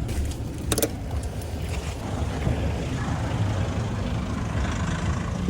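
Steady low rumble of a moving vehicle, with one sharp click a little under a second in.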